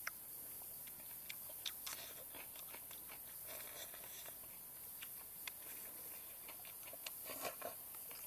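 A person chewing a mouthful of fish and rice close to the microphone, with scattered light clicks of bamboo chopsticks against a clay bowl and two short bursts of mouth noise, one midway and one near the end.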